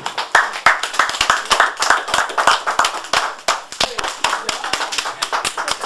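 Audience applauding: many hands clapping, starting suddenly and going on steadily.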